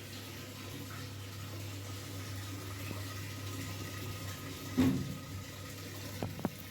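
Whirlpool top-load washing machine running with water moving in the tub over a steady low hum. A single knock comes about five seconds in, and a few light clicks follow near the end.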